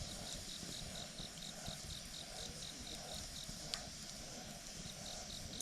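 A campfire burning, with one sharp crackle about three and a half seconds in. An insect chirps in a steady high pulse, about four chirps a second, breaking off for a moment near the end.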